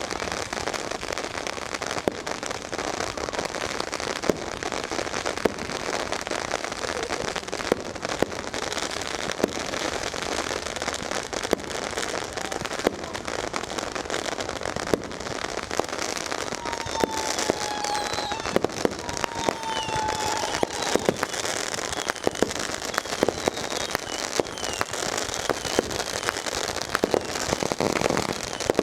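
Many firecrackers and fireworks going off at once in a dense, continuous crackle, with sharper bangs scattered through it. A few short whistles come a little past halfway.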